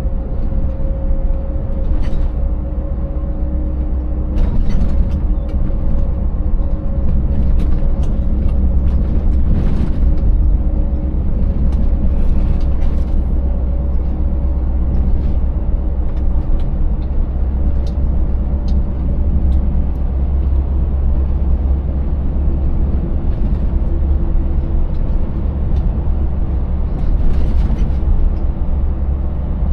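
Scania 590S 16-litre V8 truck engine running steadily at cruising load under a heavy low road rumble. Short knocks and rattles come every few seconds as the rig rides over a rough, broken surface.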